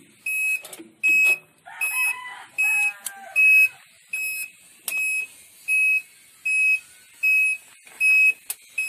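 Electronic warning buzzer on a road roller beeping steadily, one high beep about every three-quarters of a second. A rooster crows once, about two seconds in.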